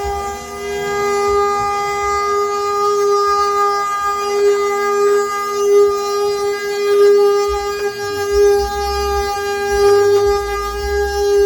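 The wooden axle of a Brazilian ox cart (carro de boi) singing as the cart rolls: a loud, steady, high-pitched drone rich in overtones, from wood rubbing on wood, with a low rumble now and then.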